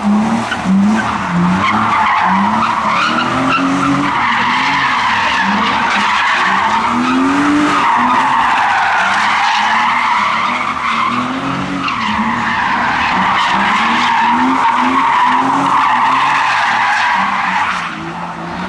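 A car drifting: a continuous tyre screech that wavers up and down in pitch, over an engine revved in short repeated rising pulls. The screech stops near the end.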